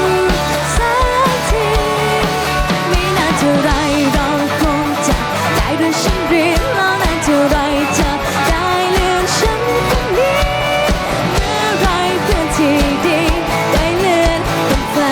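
Pop-rock band playing a song: a steady kick-drum beat under guitars, with a bending lead melody line over the top.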